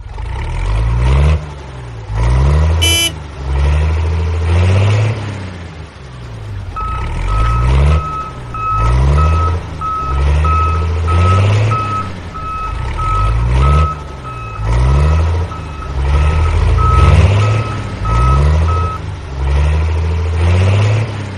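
Heavy vehicle engine sound effect revving up and down in repeated surges about once a second, with a reversing alarm beeping about twice a second from about seven seconds in until near the end.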